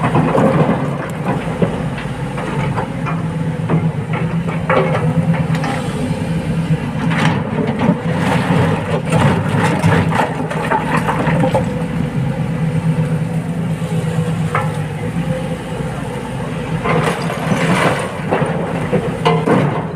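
Excavator's diesel engine running steadily, with repeated clatters and knocks of rock going into a dump truck's bed.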